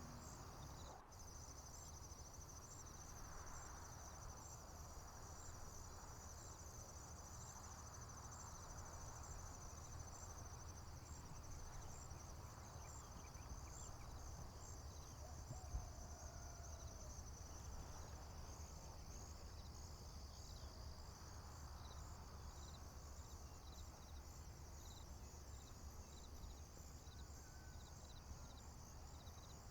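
Faint chorus of crickets and other field insects: a steady high trill with short chirps repeating evenly, over a low steady rumble. A single brief knock comes about halfway through.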